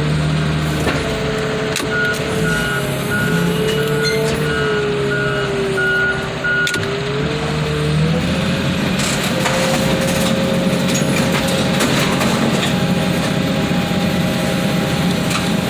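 Heavy equipment engine running under load, with a backup alarm beeping steadily for several seconds while the machine reverses; the engine pitch rises about halfway through.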